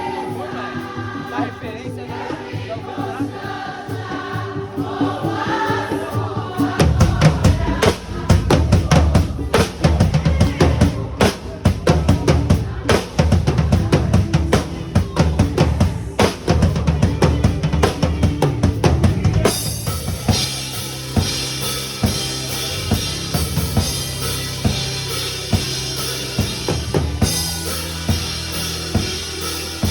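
A drum kit played along with a recorded worship song. Singing carries the first few seconds, then the full kit comes in about seven seconds in with bass drum, snare and fills, and the cymbals grow brighter and busier about twenty seconds in.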